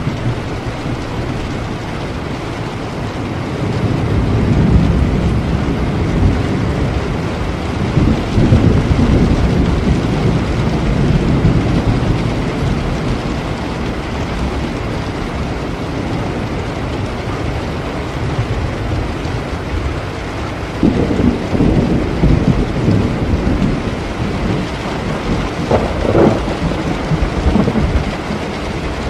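Steady rain with rolling thunder. The thunder rumbles low in two long spells: the first builds about four seconds in and lasts several seconds; the second comes about twenty seconds in and runs almost to the end.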